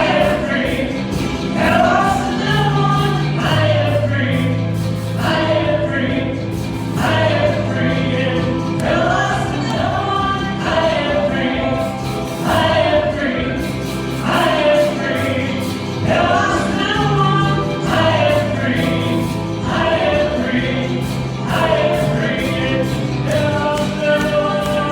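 Gospel worship song sung by a group of voices, with instrumental accompaniment of held bass notes and a steady beat.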